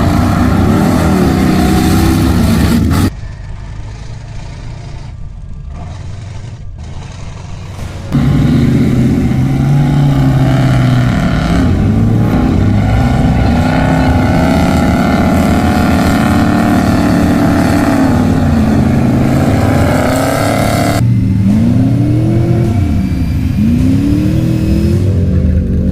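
Mud-bog truck's engine revving hard, its pitch climbing and falling with the throttle. It drops to a quieter, duller sound for about five seconds near the start, then comes back loud.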